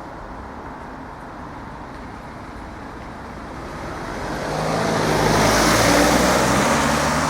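A motor vehicle passing on the road, its engine and tyre noise growing louder over a few seconds, loudest about six seconds in, then starting to fade.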